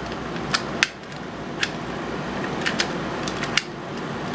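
Mortise lock mechanism being worked by hand with its key: a series of sharp metallic clicks and clacks from the latch and bolt, irregularly spaced.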